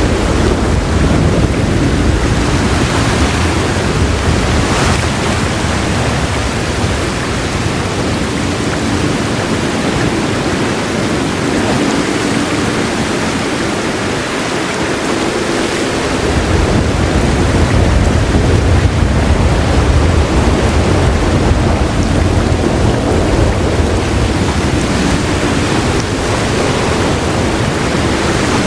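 Heavy rain falling steadily with low rolling thunder underneath. The rumble eases off for several seconds in the middle and swells back up about halfway through.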